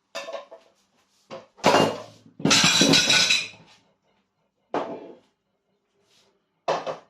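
Kitchen dishes and utensils clattering: a handful of separate knocks and clinks, with one longer clattering scrape lasting about a second, beginning roughly two and a half seconds in.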